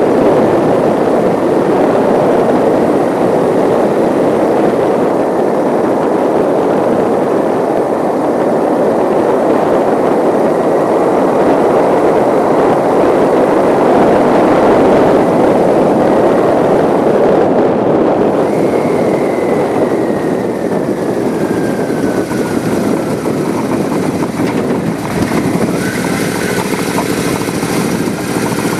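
Loud, steady rushing noise of a bike on the move. About two-thirds of the way through, a faint whine falls in pitch and the rush eases slightly.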